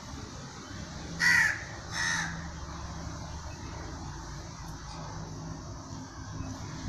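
A bird giving two short calls about a second apart, a little over a second in.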